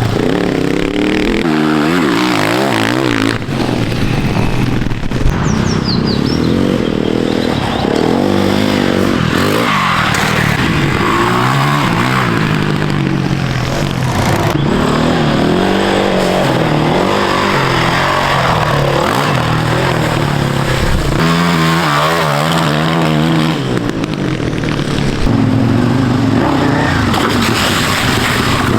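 Off-road motorcycle engine being ridden hard, its pitch rising and falling again and again with the throttle.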